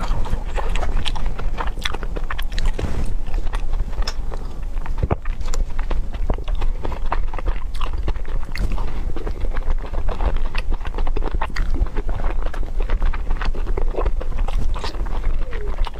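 Close-miked chewing and biting, with a dense run of small irregular mouth clicks: a person eating a soft steamed bun and then braised baby octopus. A low steady hum lies underneath.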